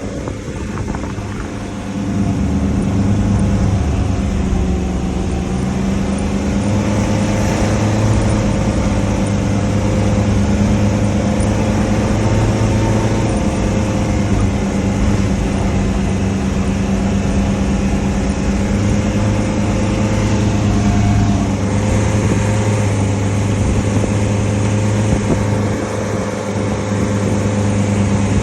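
Land Rover Defender 110 engine running steadily, a constant drone that holds nearly the same pitch with small rises and dips. It gets louder about two seconds in.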